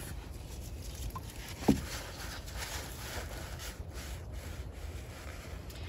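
An old toothbrush scrubbing rust-converter gel onto rusty car bodywork, a soft scratchy brushing. A short squeak about two seconds in.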